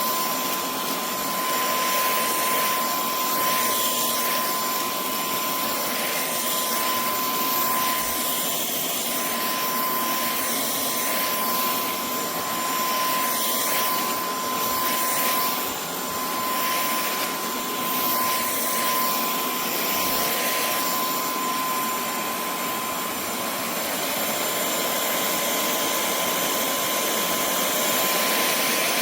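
Cordless stick vacuum cleaner running steadily: an airy rush with a constant high whine from the motor, switched on or cut in abruptly at the start.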